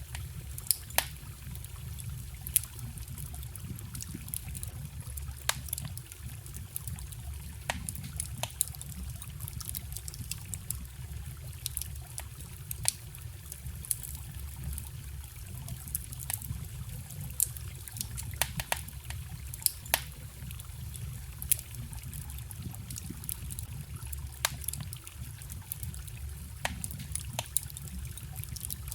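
Wood campfire crackling, with irregular sharp pops scattered throughout, over the steady low rush of a small forest stream.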